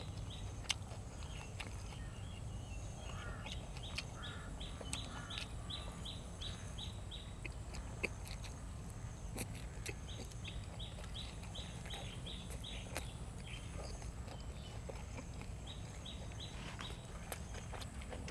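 A bird calling in two runs of short, high, repeated notes, about three or four a second, over a low steady hum, with a few scattered sharp clicks.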